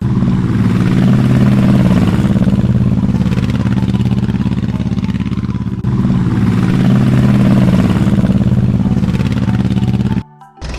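A motor engine running steadily with a rapid, even knocking beat, briefly dipping about six seconds in and cutting off suddenly near the end.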